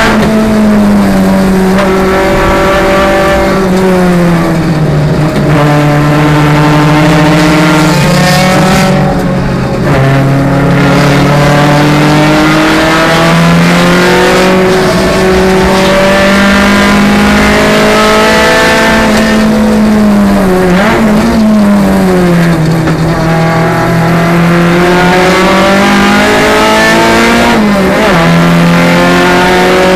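Renault Clio Sport's four-cylinder engine heard from inside the cabin at racing pace. It revs up under acceleration, and its pitch drops sharply several times as it slows and shifts down for corners.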